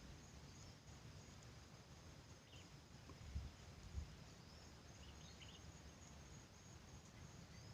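Quiet outdoor ambience: a steady high insect drone, with a few faint bird chirps. About three and a half seconds in come two soft low bumps, half a second apart.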